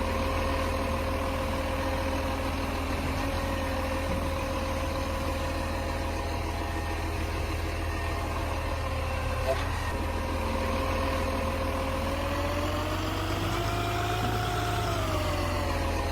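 Garbage truck's diesel engine idling steadily; about twelve seconds in the revs rise, hold briefly and settle back down.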